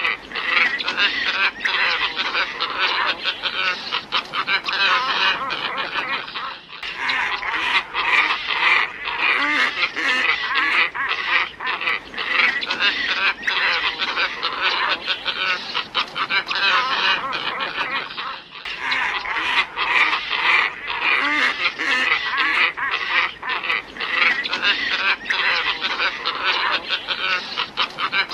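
Flock of glossy ibises calling: a dense, continuous chorus of harsh honking calls, broken by two brief pauses about twelve seconds apart.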